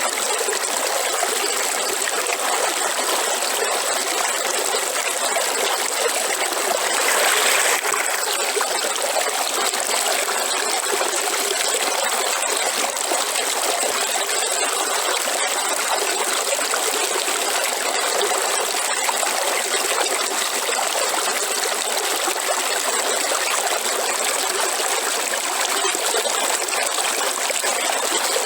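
River water flowing and trickling steadily, with a brief louder surge about seven seconds in.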